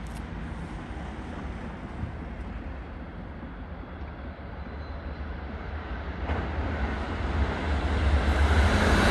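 A train approaching, growing steadily louder over the last three seconds.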